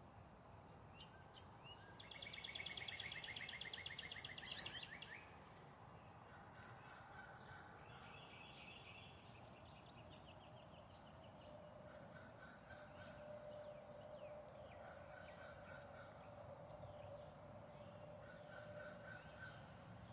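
Backyard songbirds calling and singing. The loudest is a rapid trill about two seconds in, ending in a quick rising note; a shorter trill follows a few seconds later, with scattered high chirps throughout.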